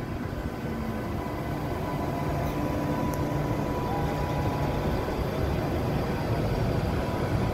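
Deutsche Bahn Intercity train pulling out of a station, with its electric locomotive pushing at the rear. Its wheels give a steady rumble, and a steady electric hum sits above it.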